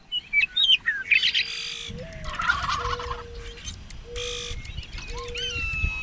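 Birds calling: a run of sharp chirps at the start, a burbling call about two seconds in, short repeated lower notes, and a long whistled note that begins near the end.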